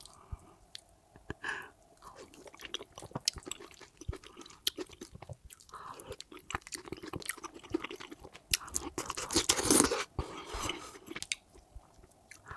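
Close-miked eating sounds of fufu with egusi soup eaten by hand: wet chewing and smacking with many small clicks, loudest about nine to ten seconds in.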